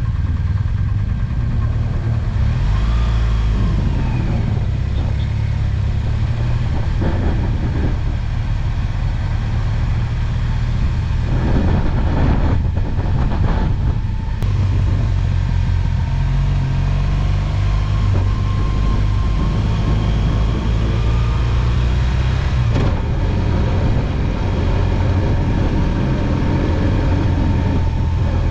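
BMW R1200GS Adventure motorcycle's boxer-twin engine running steadily on the road, with a constant rush of wind and road noise. The engine pitch shifts a few times along the way.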